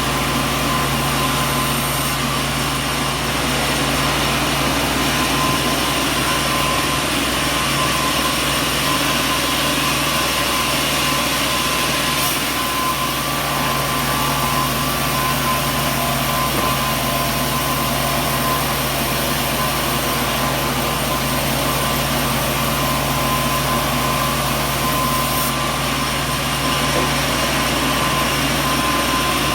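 Sawmill machinery running steadily: an even mechanical drone with a constant hum and no distinct cuts or impacts.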